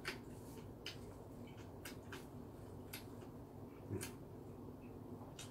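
Close-up mouth sounds of someone chewing seafood pizza: scattered wet clicks and smacks, about one a second and irregular, the loudest about four seconds in.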